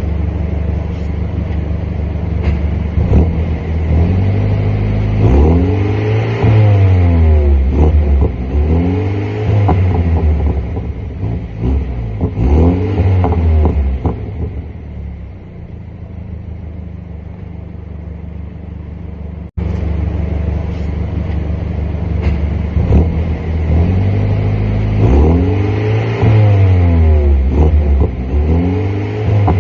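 BMW M135i engine through its stock exhaust being revved again and again, the pitch climbing and falling back every few seconds. It settles to a quieter steady idle for a few seconds about halfway through, then there is a brief dropout and the revving starts again.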